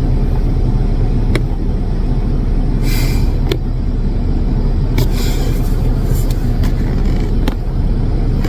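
Jeep Wrangler running: a steady low rumble, with a few sharp clicks and short hissing bursts about three and five seconds in.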